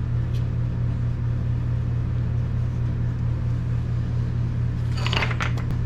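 Steady low hum of a running machine or electrical unit in the workshop, with a few short clinks about five seconds in.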